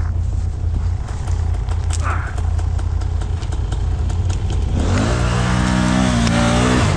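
ATV engine idling with a low, steady sound and a few clicks. About five seconds in it revs up hard, holds high revs for a couple of seconds, then drops back near the end.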